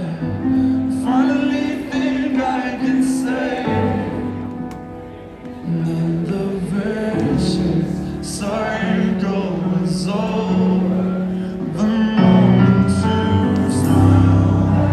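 Live band performance heard from the audience in a concert venue: a sung lead vocal over held keyboard-like chords and bass. It dips briefly near the middle, then builds louder towards the end.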